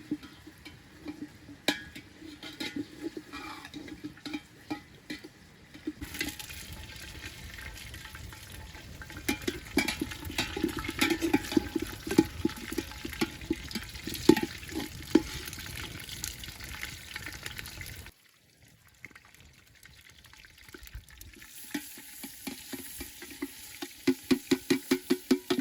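Food frying and sizzling in a pan while it is stirred, a spoon or spatula scraping the pan in quick runs of strokes. The sound changes abruptly about six seconds in and again about eighteen seconds in, and is quieter for a few seconds after the second change.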